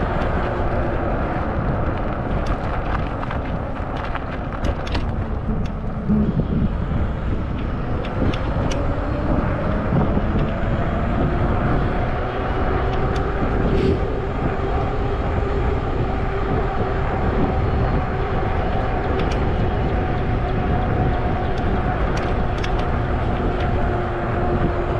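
Wind rushing over the microphone and tyre noise from a Zota Zephyr 20-inch fat-tire folding e-bike riding along. A faint whine rises slightly in pitch about ten seconds in, and there are scattered small clicks and rattles.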